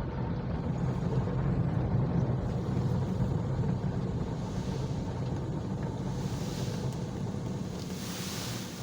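Automatic car wash running: a steady machine hum under a rush of water spray. The spray hiss grows brighter about two-thirds of the way in.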